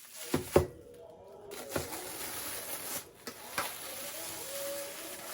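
A few sharp knocks and clicks, two close together about half a second in, the second the loudest, and two more later, over low room noise.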